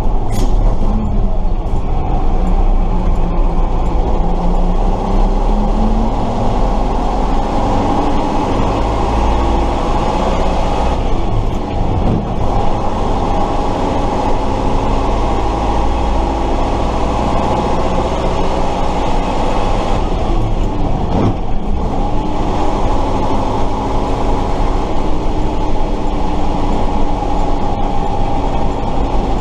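Tatra 138 fire truck's V8 engine running on the move, heard from on board. Its pitch rises and falls, with short breaks about 11 and 21 seconds in.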